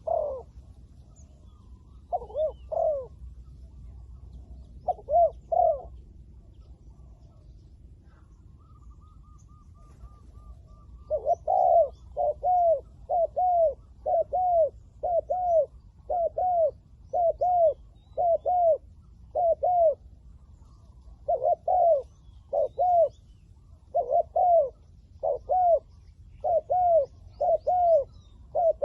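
Spotted doves cooing: a few coo phrases in the first six seconds, then from about 11 seconds in a long, regular run of paired coo notes, each note dropping in pitch.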